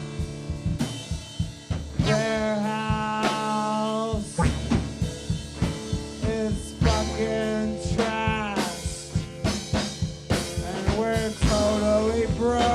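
Live rock band playing: a drum kit keeps a busy beat of sharp snare and kick hits under sustained bass notes and a lead line that bends in pitch.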